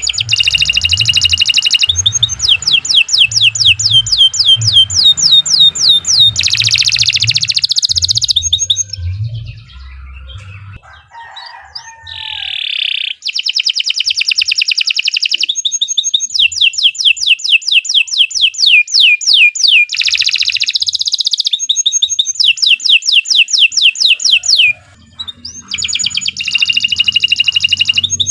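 Canary singing loud, long rapid trills of repeated sweeping notes, phrase after phrase, with a brief lull about a third of the way through.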